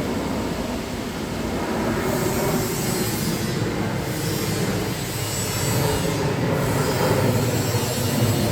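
Jet airliner's engines heard as a steady, rumbling roar from an aircraft on approach to land, growing a little louder toward the end.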